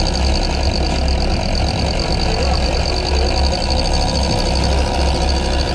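Sport-fishing boat's engine running steadily, a continuous low rumble.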